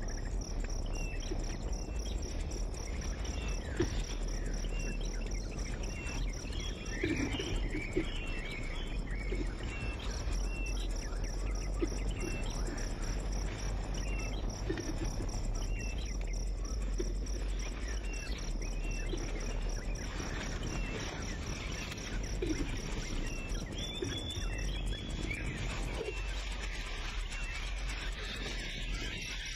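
Insects trilling steadily, with short high bird chirps repeating about once a second.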